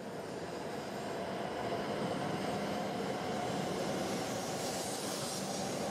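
Shinkansen bullet train running past on an elevated track: a steady rush of wheel and running noise with a faint steady tone in it. It swells over the first second or so and then holds level.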